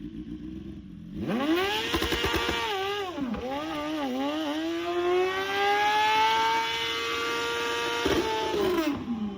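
BMW S1000RR superbike's inline-four engine running on Plastoline, a fuel made from plastic waste. It idles, then is revved up hard about a second in with a few quick blips, and is held at high revs for several seconds, slowly climbing. The revs drop back near the end.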